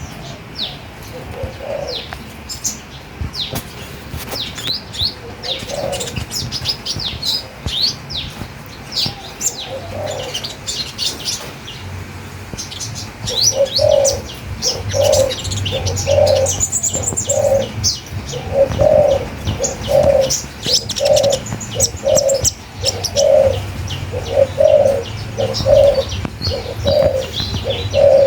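Several small songbirds chirping and twittering in quick high notes, with a low note repeated about one and a half times a second joining in about halfway through.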